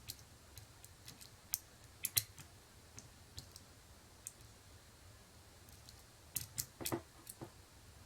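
Faint, irregular metallic clicks of a lock pick working the pins of a pin-tumbler lock cylinder, with a quick cluster of louder clicks near the end.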